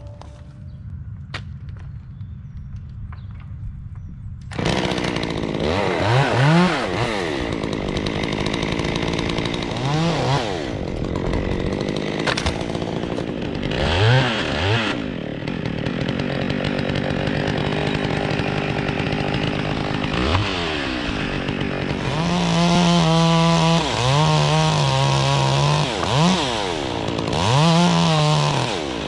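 Chainsaw cutting through a tree section, its engine pitch rising and falling repeatedly as the throttle is worked. A low steady hum comes first, and the saw cuts in suddenly about four and a half seconds in.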